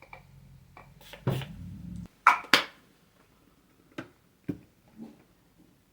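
Two quick sprays from a fragrance mist bottle, one right after the other about two seconds in. A second of low handling noise comes before them, and a few light clicks and taps of handling follow.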